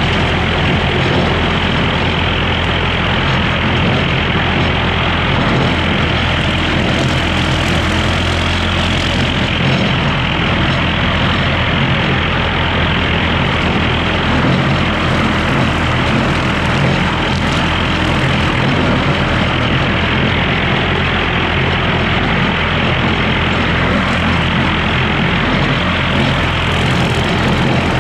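Skid steer's diesel engine running steadily at a constant pitch under a dense wash of machine noise.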